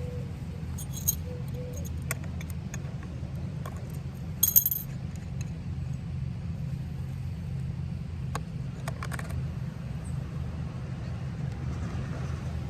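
Small metal hardware clinking and jingling as skateboard wheels are fitted onto new trucks with a tool and screwdriver: a few sharp ringing clicks, the loudest about four and a half seconds in and another cluster near nine seconds. A steady low hum runs underneath.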